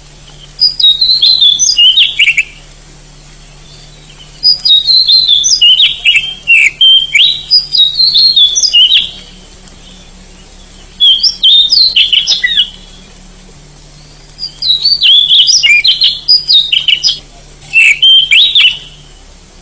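Oriental magpie-robin (kacer) singing loudly: rapid, varied whistled phrases in bouts of one to four seconds, separated by short pauses.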